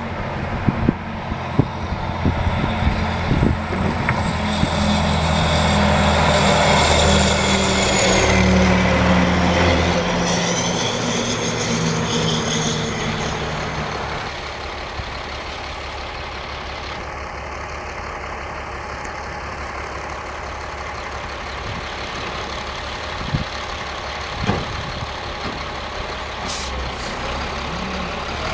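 Heavy dump truck's diesel engine running loud, with rattling knocks near the start and the pitch shifting as it works. It drops to a quieter, steady running sound about halfway through.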